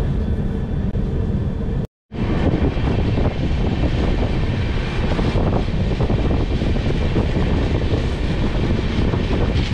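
Steady rumble of a passenger express train running along the track: wheels on the rails and the running noise of the coach. It breaks off for a moment about two seconds in.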